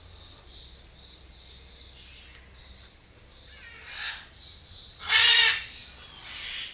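A bird's loud, harsh squawk about five seconds in, with softer calls just before and after it.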